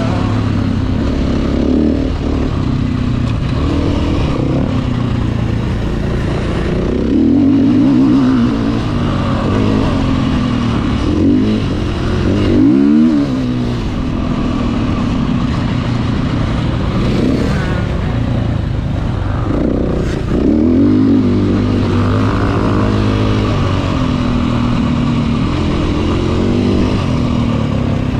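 Motocross dirt bike engine running hard, its revs rising and falling over and over as the rider works the throttle, with several louder surges along the way.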